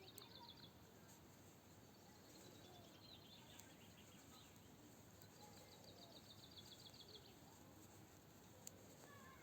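Faint bird song: a small bird's rapid trill of quick high notes, falling slightly in pitch. It repeats three times, the longest near the middle lasting about two seconds, over a steady outdoor background hiss. A few faint sharp clicks sound as well.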